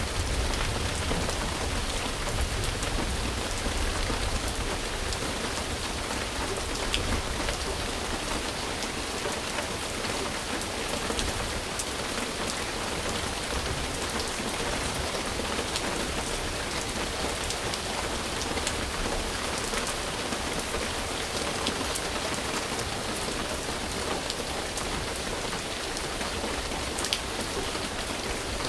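Steady rain falling, with a few sharper drop hits scattered through it. A low rumble fades away over the first few seconds.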